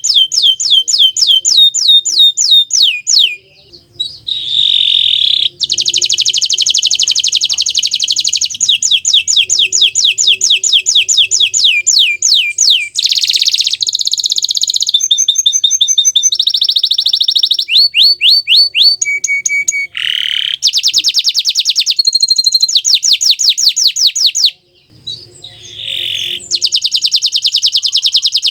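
Green domestic canary singing a long, loud song of fast trills and rolling phrases that change every second or two, with short breaks about four seconds in and a few seconds before the end.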